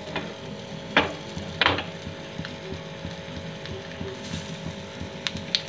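Green pea kebab patties frying in shallow oil on a hot non-stick tava, a steady low sizzle. Two short louder bursts come about a second in as patties go down into the oil, and a couple of light clicks near the end.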